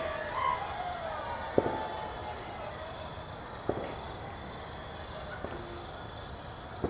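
Crickets chirping steadily in a fast pulsing trill. Distant fireworks go off over it as two sharp bangs, about a second and a half and about four seconds in, with fainter pops later.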